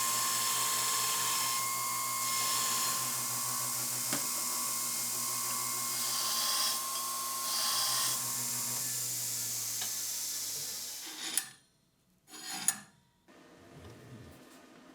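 A small power tool running steadily with a hiss and a hum, then spinning down about ten seconds in, followed by two sharp knocks.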